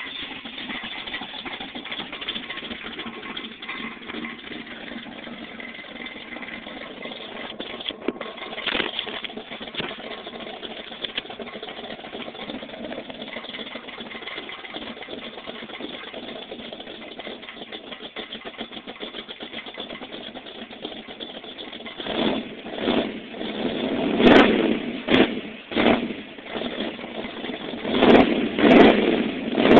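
V8-style car exhaust through headers and a true dual system with 36-inch glasspacks, idling steadily, then blipped several times in quick revs over the last eight seconds. A rattle in it comes from a loose exhaust tip.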